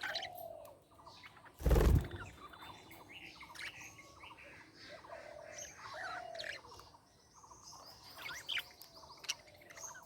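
Budgerigars chirping and warbling, a string of short rising and falling chirps and chatter. A brief loud burst of noise about two seconds in stands out above the chirping.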